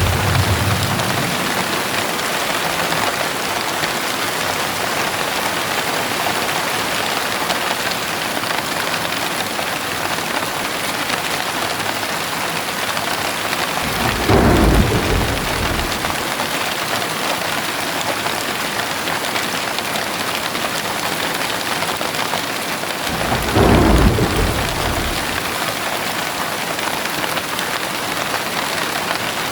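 Heavy rain pouring steadily, with two short rolls of thunder, one about halfway through and one near the end.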